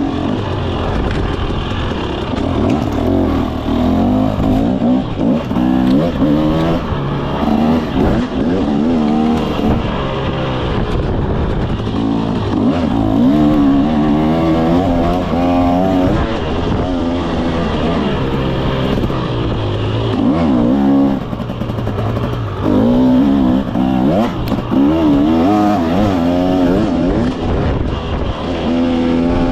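KTM 300 SX two-stroke dirt bike engine being ridden, the revs rising and falling again and again as the throttle is worked, with a brief drop in the engine note about two-thirds of the way through.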